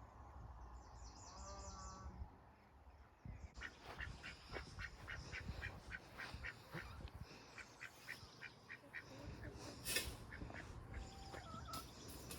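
Ducks quacking softly: a long quick run of short, repeated quacks begins about a third of the way in.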